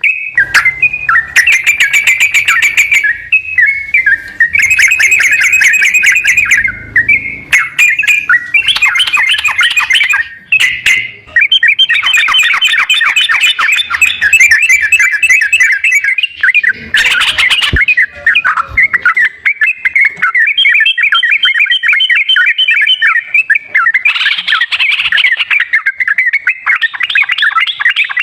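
Yellow-vented bulbul (trucukan) singing continuously in fast chattering phrases and rapid trills, with a brief harsh, rasping burst a little past the middle. It is loud, bird-stimulating song of the kind played to prompt a silent bird to sing.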